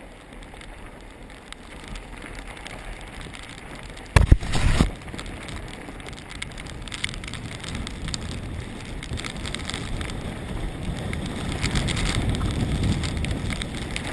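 Mountain bike riding fast down a dirt trail: steady rushing tyre and wind noise, with one loud knock about four seconds in, getting louder toward the end.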